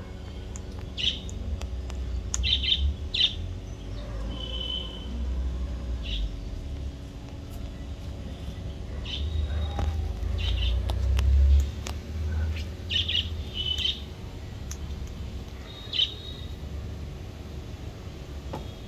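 Birds chirping: short high calls scattered every second or two, over a low rumble that swells about halfway through.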